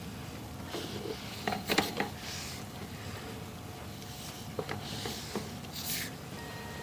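Sewer inspection camera and its push cable being fed through the line: a few light clicks and brief scraping rustles over a steady background hum.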